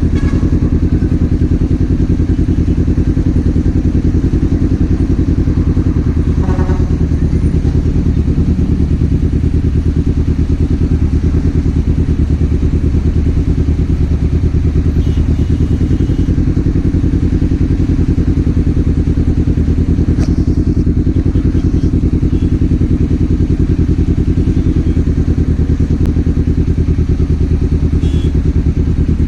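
Kawasaki Z400's parallel-twin engine running steadily at an almost constant pitch, with no revving.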